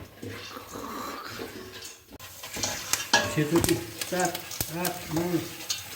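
Popcorn being stirred and fried in a pan: a sizzling hiss, then sharp clicks and scraping from about two seconds in.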